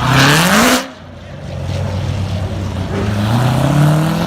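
A high-performance car engine revved hard. A quick, loud climb in pitch at the start cuts off sharply just under a second in, then the engine climbs again more slowly toward the end.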